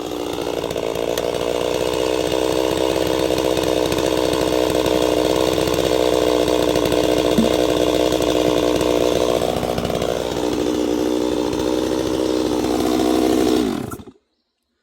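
Chainsaw running under load through an oak log, its engine note held steady and easing a little about ten seconds in. It then drops in pitch and cuts off abruptly just before the end.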